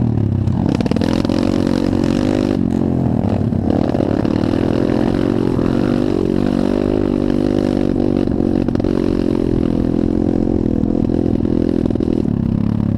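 Pit bike engine running steadily at a fairly constant speed, its pitch wavering only slightly.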